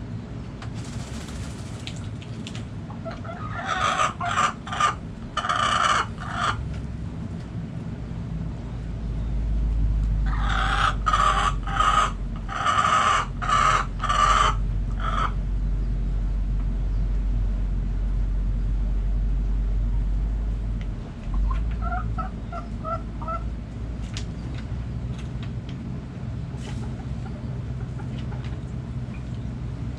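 Backyard chickens calling: two loud runs of short, repeated calls, with a few softer clucks later. A low rumble sits underneath through the middle stretch.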